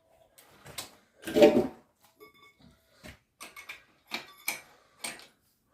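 Metal clanks and clicks from handling an engine hoist and engine stand, with one loud clank about one and a half seconds in and a brief faint ringing after it.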